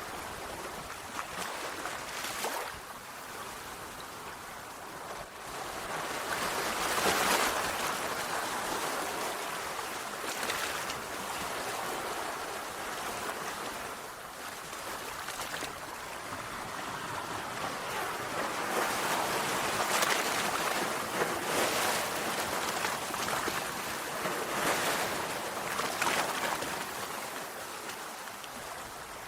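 Sea waves washing on a shore: a continuous hiss of surf that swells and ebbs, with louder surges about a quarter of the way in and several more in the last third.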